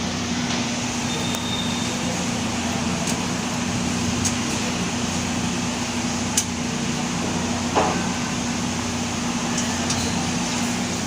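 A few light clicks and a knock as computer parts are handled and removed from a desktop system unit, the strongest about eight seconds in, over a steady hum and hiss.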